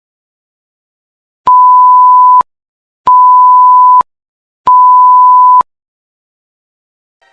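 Three loud electronic beeps, each about a second long at the same steady pitch of about 1 kHz, evenly spaced with short silences between them: a plain sound-effect beep tone.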